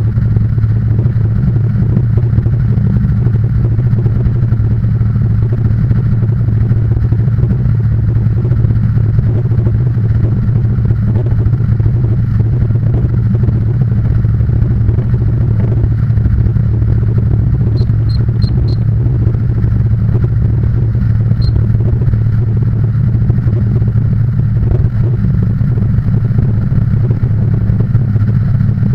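An engine running steadily, giving a loud, even low hum with no revving. A few faint, quick high ticks come about two-thirds of the way through.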